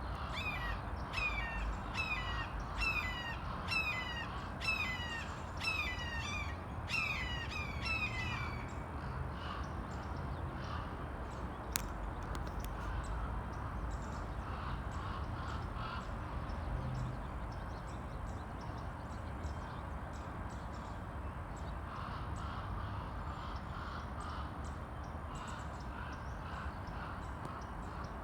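Red-shouldered hawk giving a series of about ten loud, falling kee-ah calls, roughly one a second, over the first eight seconds or so. Fainter bird calls carry on after that, with a single sharp click about twelve seconds in.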